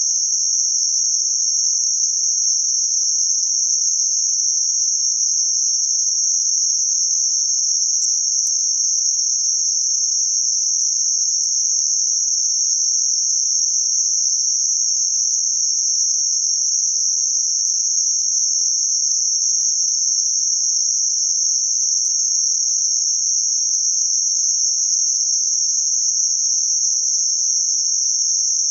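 Steady, unchanging band of synthetic noise centred near 6 kHz, a high even hiss with nothing below or above it.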